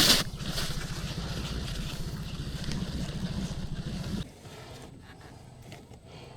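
Boat's outboard motor running steadily at low speed, then cutting off about four seconds in, leaving only faint wind and water.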